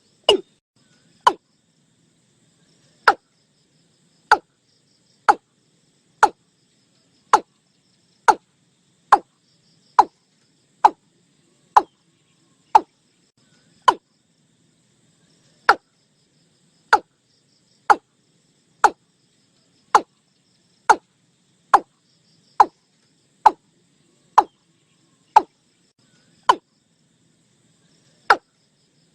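Watercock calling: a series of short, sharp notes, each falling steeply in pitch, spaced roughly a second apart and unevenly. A quicker run of notes ends just at the start.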